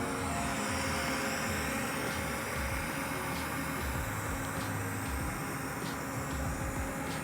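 Robot vacuum cleaner running: a steady whir of its suction motor and brushes, with a few light clicks.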